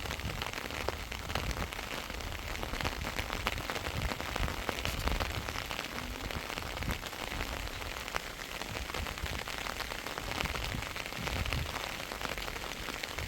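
Heavy rain falling steadily, with many separate drop impacts heard through it.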